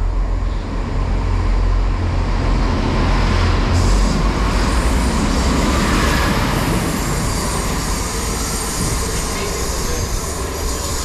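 Class 166 Networker Turbo diesel multiple unit passing through the station: engines running and wheels on the rails in a steady loud rumble, loudest about four seconds in and easing a little towards the end.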